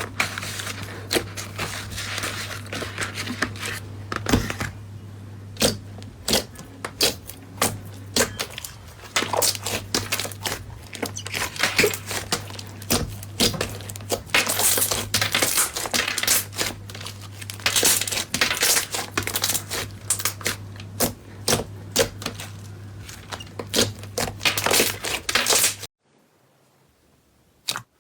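Slime being squeezed and poked by hand: a dense, irregular run of crisp crackles, pops and clicks over a steady low hum. About two seconds before the end the hum cuts out, leaving a few single sharp clicks.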